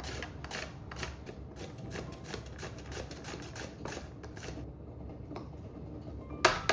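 Zucchini being grated by hand on a metal grater: rhythmic rasping strokes, about three to four a second, that ease off after a few seconds. A few loud sharp knocks follow near the end.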